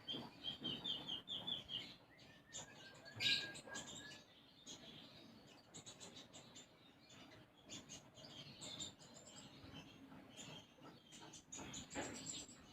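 Konin songbird singing, chirpy song worked through with mimicked tree sparrow calls: a quick run of chirps near the start, a held whistle and a sharp loud chirp about three seconds in, then scattered chirps.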